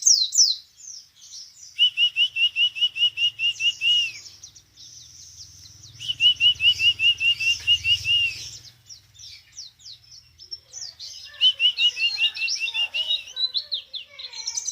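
Songbird singing: three runs of rapid, evenly repeated chirps of about five a second, each lasting two seconds or so, with quicker, higher twittering phrases in between.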